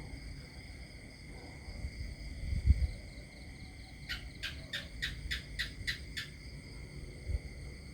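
A steady, high-pitched chorus of insects such as crickets, with a bird calling a quick series of about eight notes, around four a second, midway through. A low thump sounds briefly a little before that.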